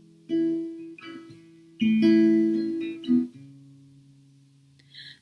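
Guitar playing alone: three chords struck about a second and a half apart, each left to ring and die away, fading near the end.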